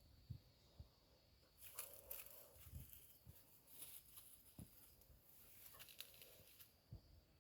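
Near silence, with faint rustling and a few soft knocks scattered through it.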